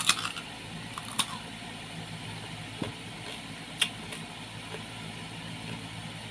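A crisp bite into a firm slice of raw fruit, then a few sharp crunches as it is chewed: one about a second in and another near four seconds. A steady low hum runs underneath.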